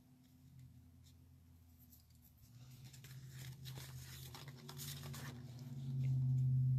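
Paper and cardstock being handled and placed by hand, short rustles and light taps, over a steady low hum that grows louder in the second half.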